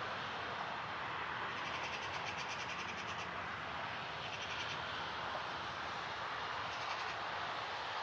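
Steady rushing outdoor background noise, with short bursts of fast, high chirping trills from a small bird: a longer one about two seconds in, then shorter ones about four and seven seconds in.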